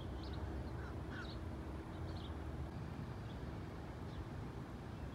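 A few short bird calls, most of them in the first half, over a steady low rumble.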